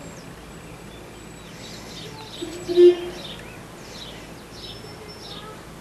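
Small birds chirping in the background, a string of short falling chirps, with one brief low tone about three seconds in that stands out as the loudest sound.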